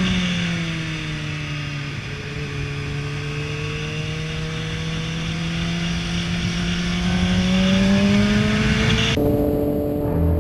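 Motorcycle engine heard from the rider's onboard camera under wind rush: its note sinks slowly and then climbs back up over several seconds. About nine seconds in it cuts abruptly to a steadier engine sound with level tones.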